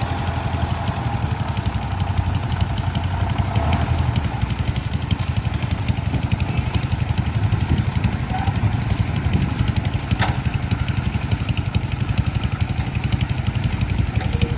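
Farm machine engine running steadily with a fast, even firing beat. A single sharp click comes about ten seconds in.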